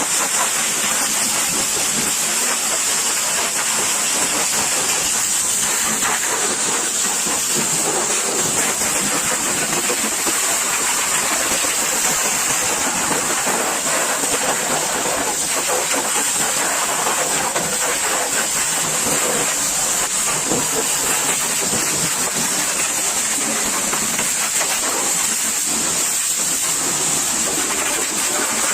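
High-pressure washer jet spraying water, a steady continuous hiss.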